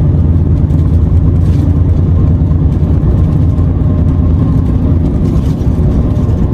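Renault T480 truck's six-cylinder diesel engine running steadily on the move, a low, even drone.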